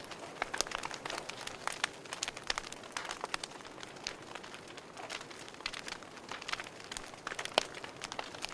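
Wood fire burning in a fireplace, crackling: irregular sharp pops and snaps over a soft steady hiss.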